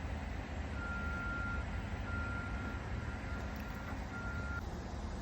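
A vehicle's reversing alarm beeping, four beeps at one steady high pitch, over a steady low rumble.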